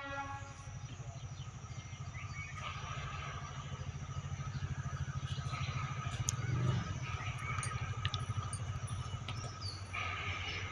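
Train running with a steady, low, fast-pulsing rumble, with faint bird chirps over it.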